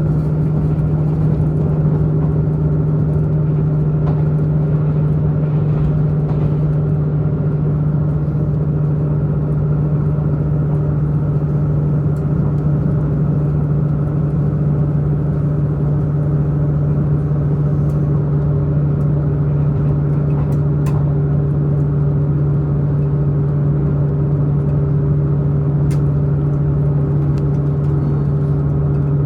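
Diesel multiple unit's diesel engine running steadily under power, heard from inside the passenger car as a constant low drone over running rumble, with a few faint ticks.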